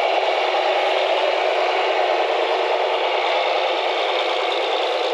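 Steady mechanical rattling of a running machine.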